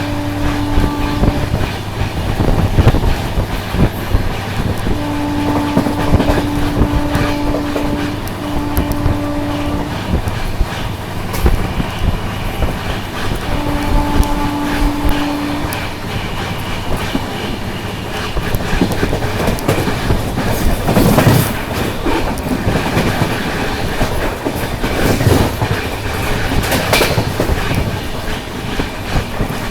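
Passenger train running, a steady rumble with wheels clattering over the rail joints. In the first half a train horn sounds four times: a short blast, a long one, a shorter one right after it, and one about two seconds long. A few louder clanks come in the second half.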